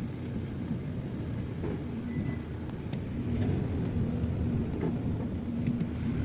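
Road noise inside a Nissan Note while driving: a steady low rumble with a few faint, scattered clicks.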